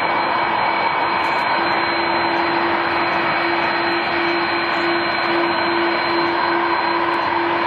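Airbus A330 jet engines running steadily: a loud, even rush with a steady whining tone through it.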